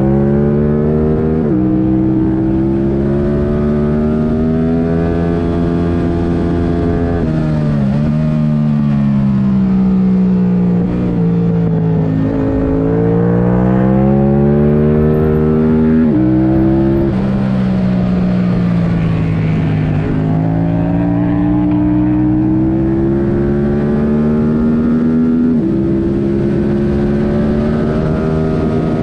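Yamaha R7's 689 cc parallel-twin engine, running with the airbox removed and a MIVV Delta race exhaust, pulling hard through the gears at track pace: the pitch climbs steadily and drops sharply at each upshift, three times, and falls away under engine braking a few times between pulls.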